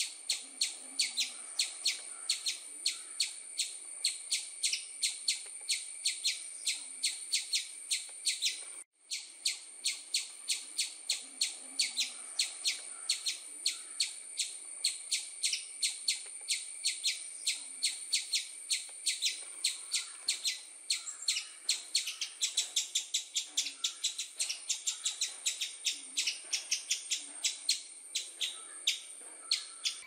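Small birds chirping in a quick, even series of short high chirps, about three a second, over a steady high hiss. The sound drops out for a moment about nine seconds in, and the chirps come thicker in the last third.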